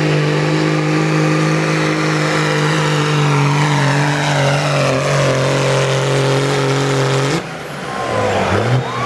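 Duramax diesel pickup engine at full throttle pulling the sled: a loud, steady drone with a high whine above it that slowly falls in pitch. About seven seconds in, the throttle is cut and the engine note drops away, with a few short gliding whistles before it settles again.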